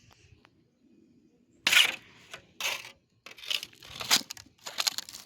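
A run of crunching hits on icy snow, five in about three seconds, the first and loudest coming nearly two seconds in.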